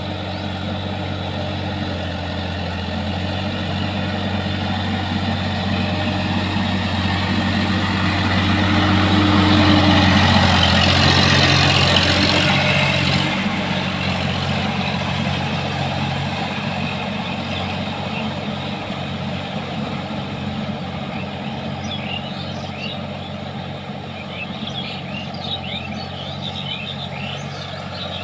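Sonalika tractor's diesel engine running at a steady speed, growing louder to a peak about halfway through, then dropping off suddenly and fading slowly.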